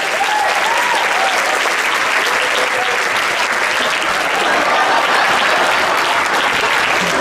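Theatre audience applauding steadily, with a few voices whooping in the first second or so.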